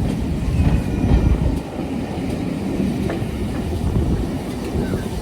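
Railway train running on the track: a dense low rumble with a few wheel clicks and a brief faint squeal, the rumble easing about one and a half seconds in.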